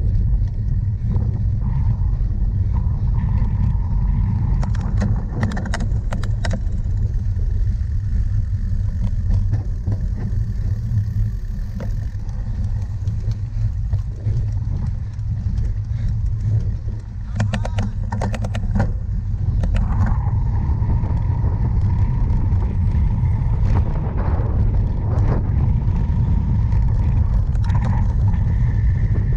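Heavy wind rumble on the microphone of a cyclocross bike in motion, with bursts of rattling clicks as the bike jolts over rough ground twice.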